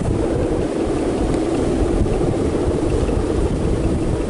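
Strong wind buffeting the microphone: a steady, unbroken rumbling noise.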